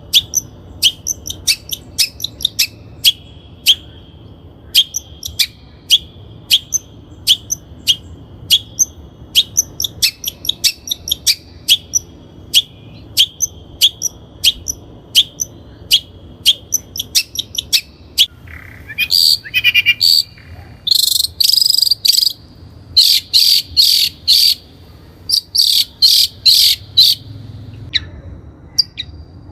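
Long-tailed shrike calling: a string of short, sharp chirps, about two to three a second. About two-thirds of the way in, it breaks into louder, rapid chattering bursts.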